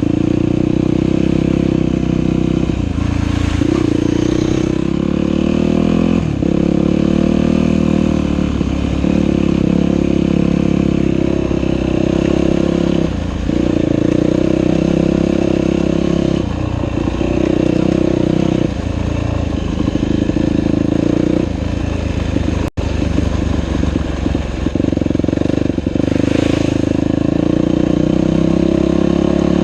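Dirt bike engine running under load on a trail, its pitch dropping and climbing again every few seconds as the throttle is rolled off and on and gears change.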